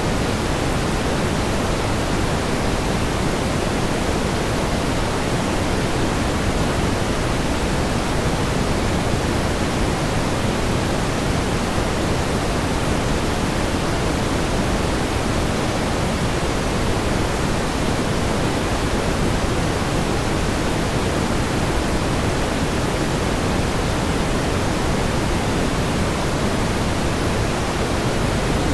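Steady pink noise: an even, unchanging hiss with more weight in the lows than the highs.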